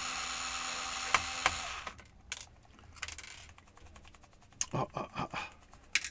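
Small electric screwdriver whining steadily as it backs out a laptop case screw, stopping about two seconds in, with a couple of sharp clicks while it runs. After it stops come light clicks and handling of small parts.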